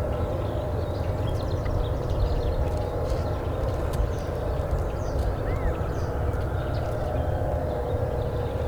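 Steady low rumble of outdoor background noise, with faint chirps and twitters of small songbirds scattered through it.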